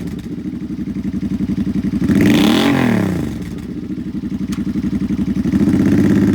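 2009 Suzuki Boulevard C50's 800cc V-twin running through aftermarket Cobra exhaust pipes, blipped once about two seconds in with the pitch rising and falling back to idle. The engine sound steps up in loudness near the end.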